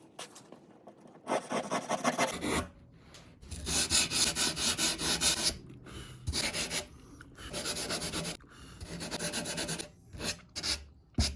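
Quick back-and-forth strokes of a hand tool cutting and rasping through cured foam filler in a surfboard, trimming it flush, in runs of a second or two with short pauses.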